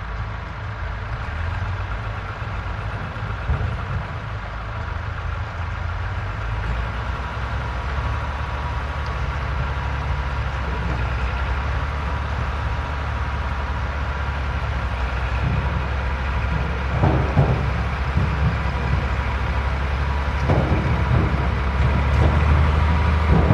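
Tractor engine running steadily, growing gradually louder, with a few short clattering knocks in the second half.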